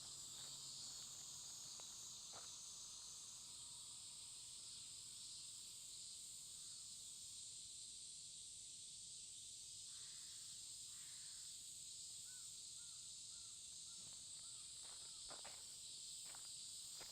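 Faint early-morning outdoor ambience: a steady high insect chorus, with a crow cawing twice about ten seconds in, followed by a short run of small bird chirps. Footsteps tick near the end.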